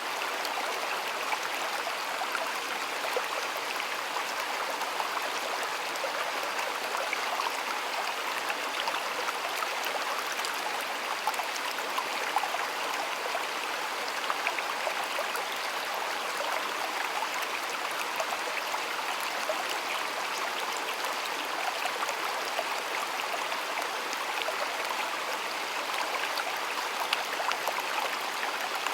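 Shallow stream water flowing steadily, a constant babble with many small splashes and gurgles.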